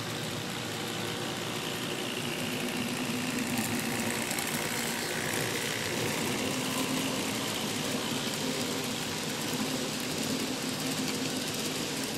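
A train running steadily: an engine-like drone with a faint whine that slowly falls in pitch.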